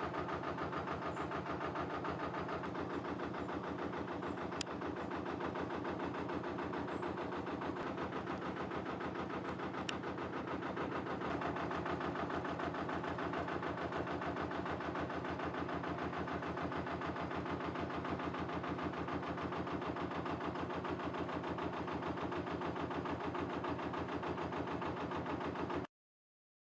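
Narrowboat engine running steadily at low revs with an even, rhythmic chug. The sound cuts out abruptly for about a second near the end.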